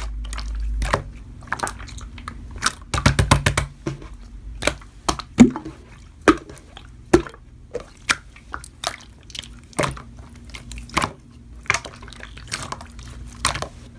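Slime being squeezed and pressed by hand, giving irregular sharp clicks and wet pops, with a quick run of them about three seconds in.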